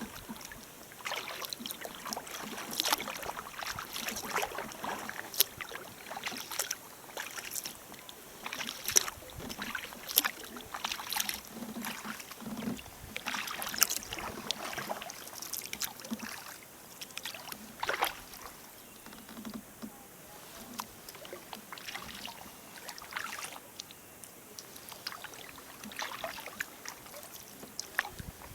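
Sea kayak paddling: the paddle blades dipping and splashing in the water in irregular strokes about every second, with drips and small splashes in between.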